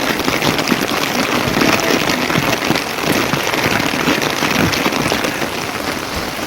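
Rain falling steadily: a dense, even patter of drops.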